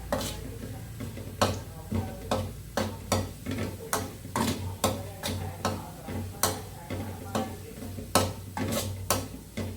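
A utensil stirring in a cooking pot, knocking against its sides in irregular sharp taps, roughly one or two a second, over a steady low hum.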